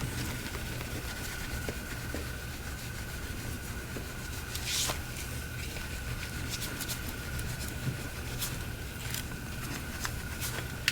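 Light rubbing, scraping and small clicks from the freshly reglazed phone being wiped clean and handled, with one brief hiss about five seconds in. A steady low hum and a faint steady high tone run underneath.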